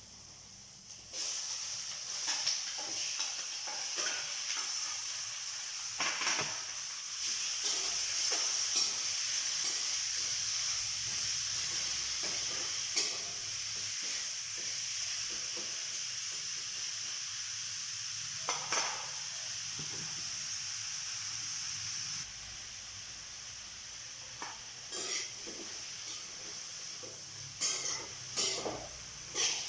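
Food sizzling in hot oil in a pan, starting suddenly about a second in, with a utensil stirring and knocking against the pan now and then. The sizzle settles a little quieter about 22 seconds in.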